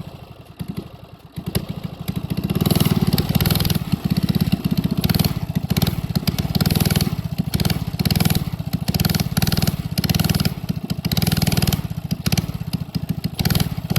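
A gas mini bike's small engine running under throttle. It is softer for the first second or so, then gets louder about two seconds in and rises and falls unevenly as it is ridden.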